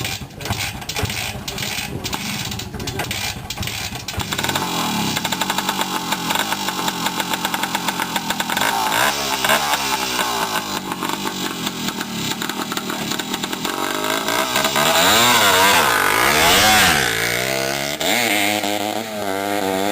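Vintage CZ two-stroke motocross motorcycle engine revving, its pitch rising and falling several times. It is rougher and uneven for the first few seconds and loudest about three-quarters of the way through.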